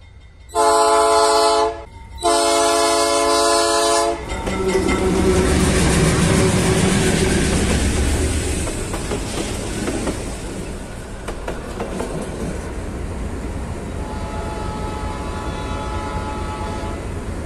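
Diesel freight locomotive horn sounding two long blasts, a warning for the level crossing. The locomotive then passes close with its engine running and the wagons clattering over the rails. Near the end a fainter train horn sounds again, held for a few seconds.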